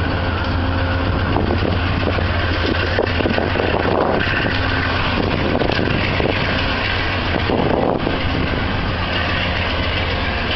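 Steady low rumble and hum of a train at close range, with a faint steady tone over it and scattered small clicks.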